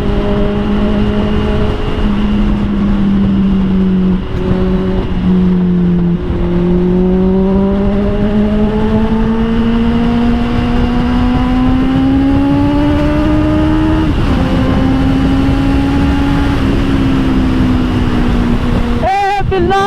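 Honda CBR650R's inline-four engine through an Austin Racing GP1R exhaust, running at steady cruising revs. Its pitch climbs gradually for several seconds as the bike accelerates in gear, then eases off a little and holds steady.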